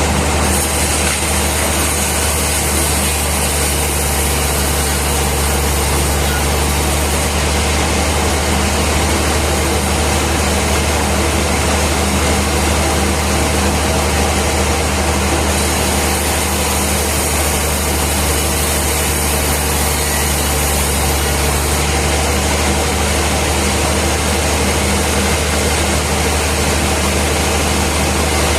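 A heavy engine or machine running at a steady idle, a loud unchanging low drone with a hiss on top that comes and goes in long stretches.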